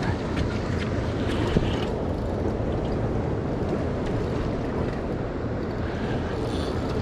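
Steady wind buffeting the microphone over open water, with a low steady hum from the boat's idling engine underneath.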